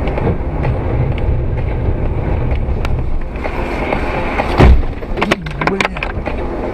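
Steady rumble of a moving vehicle's engine and road noise, with one heavy bang about four and a half seconds in, followed by a few quick knocks.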